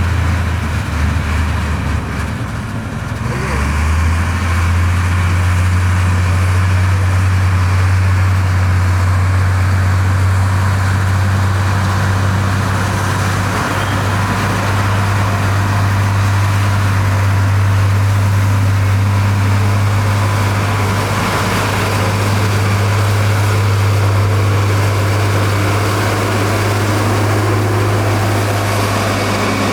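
Heavy diesel engine of construction machinery running steadily at constant speed: a deep, even drone with a dip in level a couple of seconds in.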